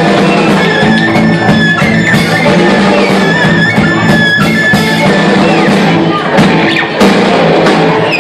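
Live band playing a fast Romanian Gypsy-style folk tune, with violin and guitar over upright bass and drums. The low bass notes drop out near the end.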